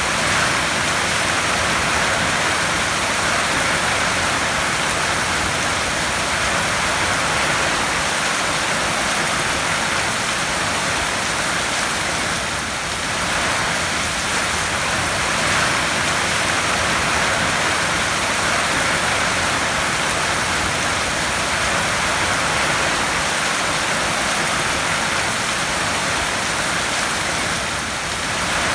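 Heavy rain drumming steadily on a tin roof, a dense even hiss with slight swells in loudness.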